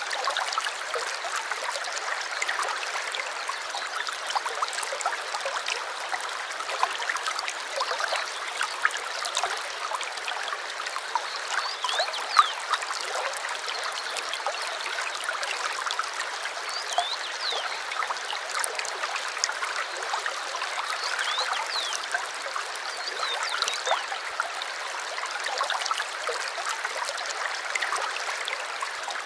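Small stream babbling and trickling steadily over stones, with a few short bird chirps here and there.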